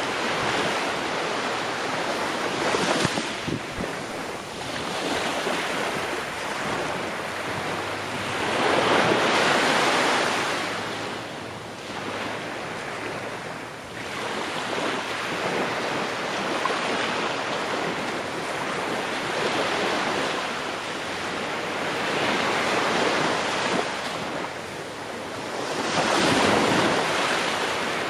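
Ocean waves breaking and washing on the shore, swelling and fading every few seconds.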